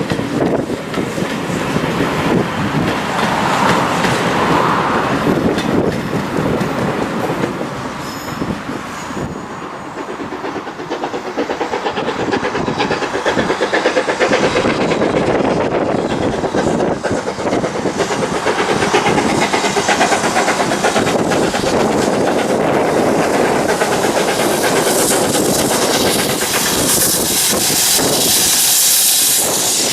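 A steam-hauled train running past, its wheels clattering over the rails for the whole stretch.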